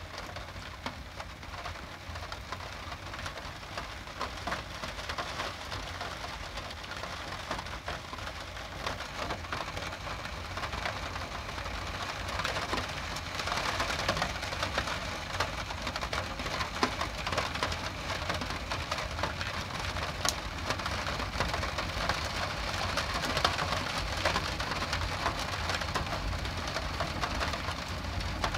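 Steady rain, a dense patter of drops with a low steady rumble underneath, growing a little louder about halfway through.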